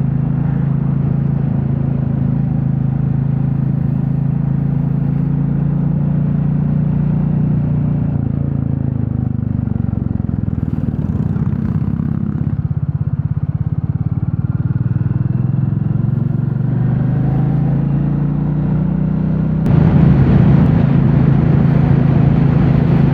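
Royal Enfield Classic 350's single-cylinder engine running steadily under way. It eases off and wavers a little about halfway through, then pulls louder from about twenty seconds in.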